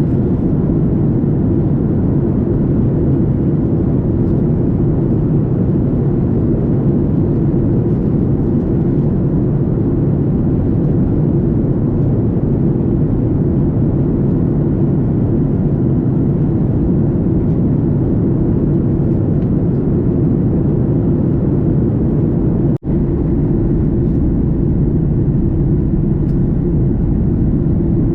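Steady low drone of cabin noise inside a Boeing 737 MAX 8 in flight: the CFM LEAP-1B engines and the rush of air past the fuselage. It cuts out for a split second once near the end.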